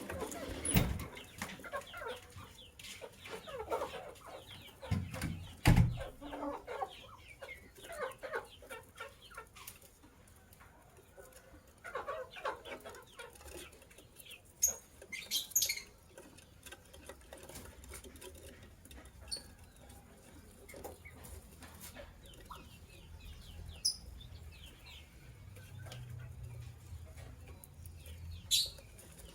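Lovebirds chirping and chattering in short, irregular calls, with a few sharper high chirps later on. A couple of low thumps near the start, the loudest about six seconds in.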